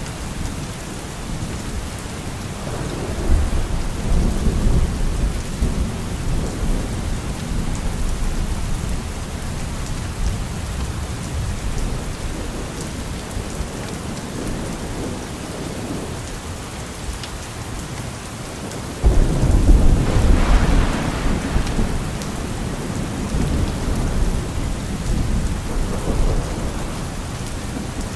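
Steady rain falling, with two low rolls of thunder: one swelling about three seconds in, and a louder one breaking in suddenly about two-thirds of the way through and rumbling on for several seconds.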